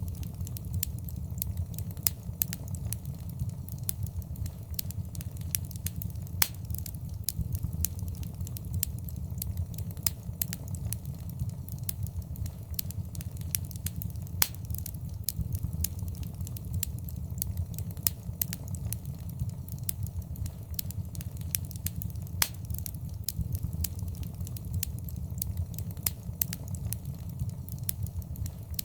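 Fireplace fire crackling, with frequent sharp, irregular pops over a steady low rumble.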